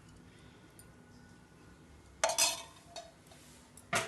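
Metal cookware clattering: a ringing clank about two seconds in, a lighter knock, then a sharp clack near the end.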